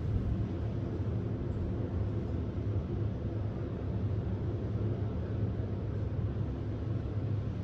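Cruise ship Mein Schiff 3 under way: a steady low engine drone with a constant hiss over it.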